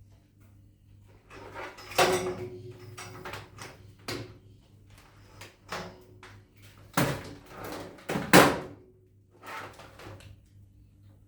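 A series of knocks and clatters of household things being handled and set down, some with a short ring, the loudest about eight seconds in.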